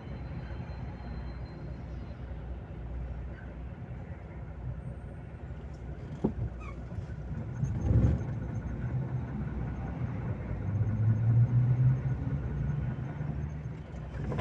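Volvo FH 460 truck driving, a steady low engine and road rumble. A short sharp knock comes about six seconds in, and a brief louder thump comes about two seconds later. Near the end the engine note swells louder for a couple of seconds.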